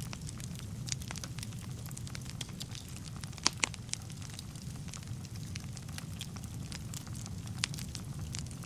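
Wood fire burning in a fireplace: a steady low rumble of flames with scattered sharp crackles and pops of the burning wood, two louder pops about three and a half seconds in.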